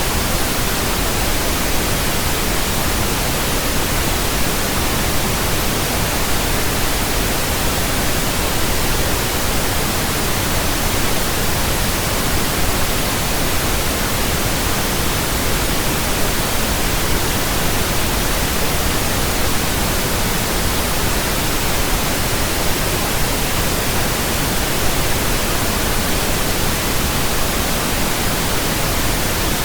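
Steady pink noise: an even, unbroken hiss across the whole range, made by a pink noise generator as a burn-in signal for running in new speakers and earphones.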